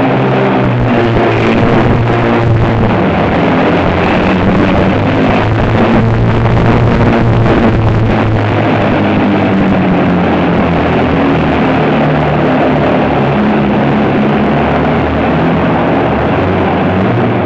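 Heavy truck engine running loudly and changing revs, in an echoing indoor hall.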